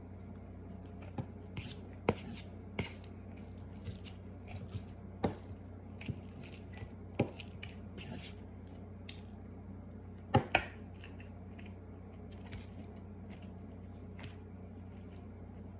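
Scattered light clicks and taps of food being handled on a plate between bites, with two sharper clicks close together about ten seconds in, over a steady low hum.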